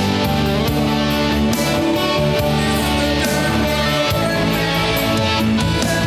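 Instrumental band music led by strummed electric guitar, steady and full.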